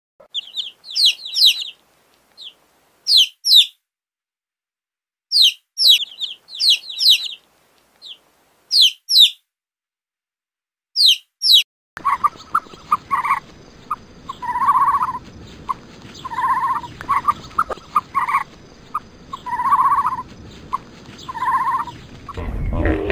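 A small bird chirping in quick, high groups with silent gaps between. About halfway through it cuts to chickens clucking with repeated short and drawn-out calls over a steady background hiss.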